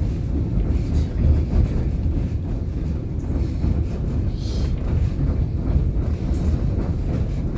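Steady low rumble of a passenger train running on the rails, heard from on board.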